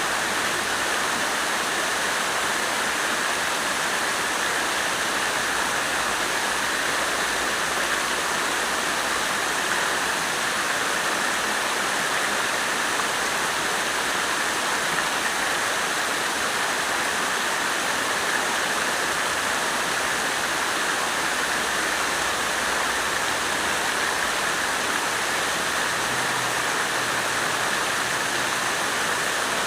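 Water fountain splashing steadily, an even rush of falling water with no change in level.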